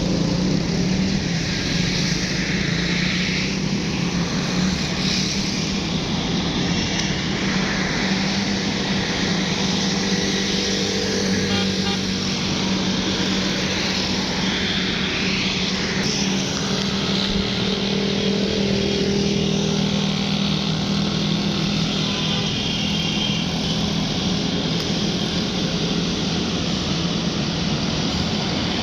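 Tractor engine running at a steady pace as it hauls a loaded trailer, a continuous low drone with engine and road noise and no change in pace.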